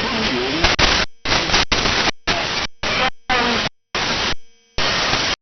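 Shortwave radio static with a faint, garbled voice in it, received over a WebSDR. The hiss is chopped into a series of short bursts by brief gaps of silence.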